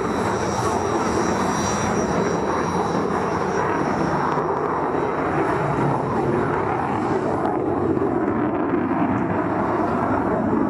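Jet aircraft engine noise, a steady dense rush throughout, with a thin high whine that fades out after about three seconds.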